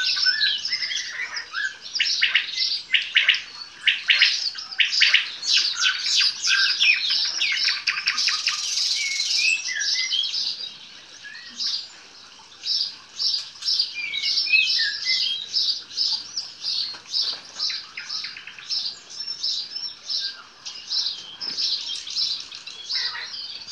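Nightingale singing: fast runs of clicks and rattling notes mixed with clear whistled phrases, easing off briefly about halfway through before starting up again.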